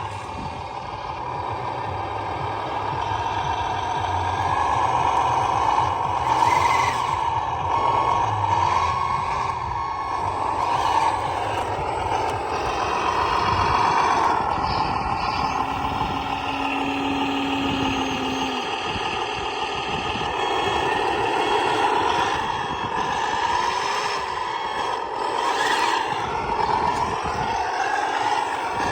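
HG P602 6x6 radio-controlled truck driving, its drivetrain whining continuously, with the pitch rising and falling again and again as the throttle changes. A short steady tone sounds briefly about two-thirds of the way in.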